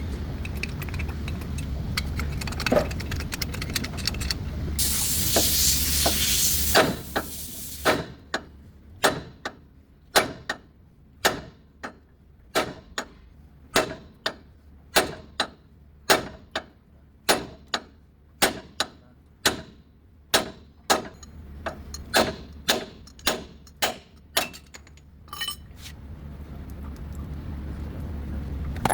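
A hammer strikes metal again and again, about one and a half to two blows a second, as in knocking a GMC ball joint loose. Before the blows there is a couple of seconds of spraying hiss.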